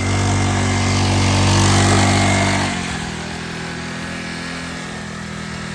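Small 40cc four-stroke engine of a kids' mini dirt bike running steadily, then dropping to a quieter, steady run about two and a half seconds in.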